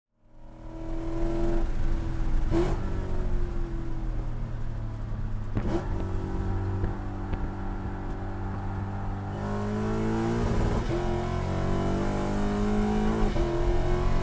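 Lexus IS F's 5.0-litre V8 heard from inside the cabin under hard throttle on track, fading in over the first second. In the second half the engine note climbs twice, each climb broken off briefly as the car shifts up a gear.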